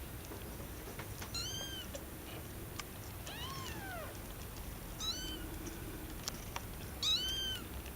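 Young kittens mewing: four short, high-pitched mews spaced a second or two apart, each rising and falling in pitch. The second mew is longer and a little lower.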